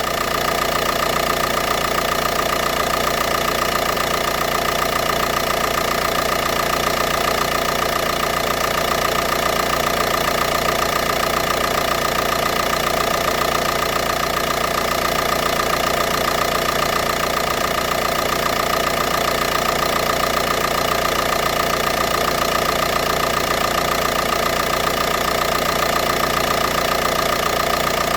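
Volkswagen Pumpe-Düse TDI diesel engine idling steadily from cold after standing overnight.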